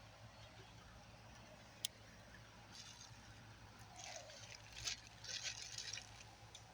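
Faint rustling and handling noises, with a single sharp click about two seconds in and several short scraping rustles in the second half, over a low steady hum.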